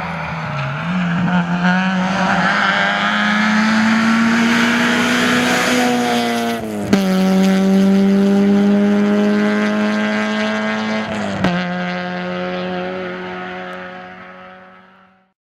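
Rally car engine running hard at high revs, its note climbing slowly, with two quick gearshifts about seven and eleven and a half seconds in; the sound fades out near the end.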